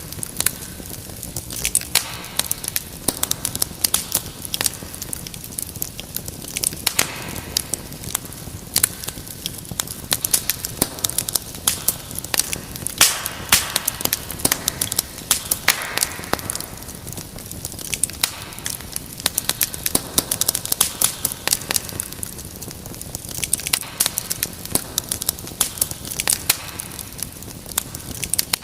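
Wood fire crackling in a fireplace: dense, irregular sharp pops and snaps over a steady hiss.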